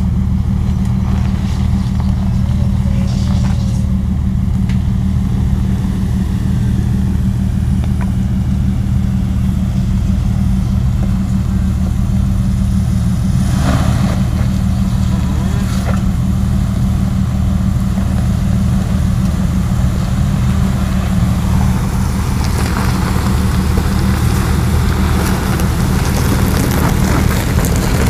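Off-road 4x4 engine running steadily at low revs while crawling over rocks, a constant low drone with no revving.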